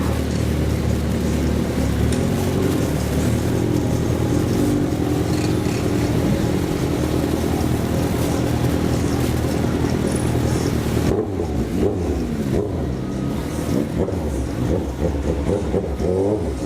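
Motorcycle engine running during a ride, with steady road and wind noise. Over the last few seconds the engine note rises and falls unevenly.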